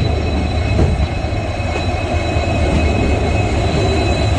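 Passenger train running: a steady low rumble and rattle of the coach on the rails.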